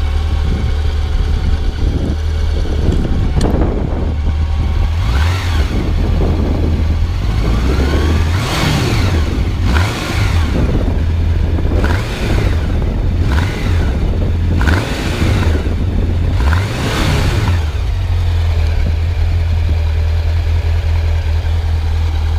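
Honda Nighthawk CB750's carbureted 750 cc four-cylinder engine running through its stock exhaust, under steady heavy wind rumble on the microphone. From about 4 s to 17 s a series of swells rise and fade one after another.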